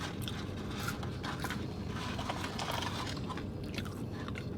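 Someone eating fast food, with chewing, crunching and short crackling clicks, over a steady low hum.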